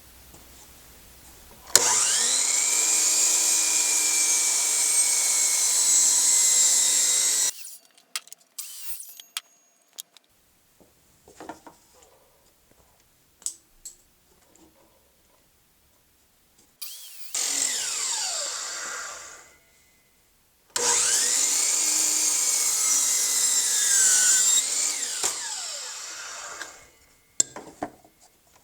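Electric power saw cutting excess off a wooden piece, run three times: it starts about two seconds in, runs for some seconds, and winds down, its pitch climbing at each start and falling at each stop. Knocks and clicks of the wood being handled come between the runs.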